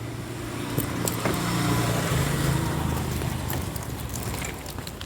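A passing motor vehicle's engine hum, growing louder over the first two seconds or so and then fading, with scattered sharp clicks and rattles.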